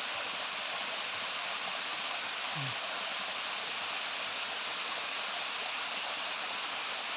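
Waterfall: a steady rush of falling and cascading water.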